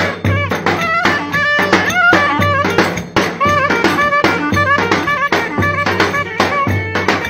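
Live Turkish wedding dance music: a fast, steady drum beat with deep bass hits under an ornamented, wavering melody line.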